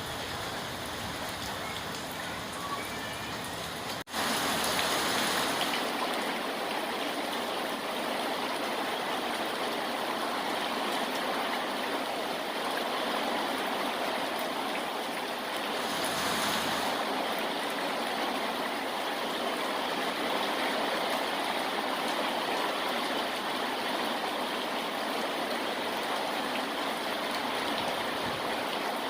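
Steady heavy rain, an even rushing hiss of water with no single drops standing out. About four seconds in it cuts out for an instant and resumes slightly louder.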